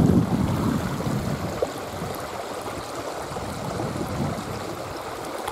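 Shallow river water running over stones, a steady rushing hiss, with a brief low rumble right at the start.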